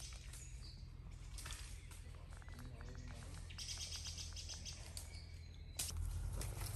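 Woodland birds singing and chirping, with a quick, evenly spaced trill about two and a half seconds in. Near the end, louder rustling noise sets in suddenly.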